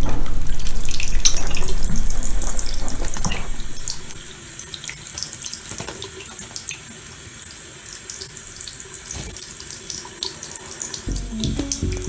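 Tap water running into a bowl in a sink while a small pet bird bathes in it, with small splashes. The flow is loud for the first few seconds, then drops to a softer trickle.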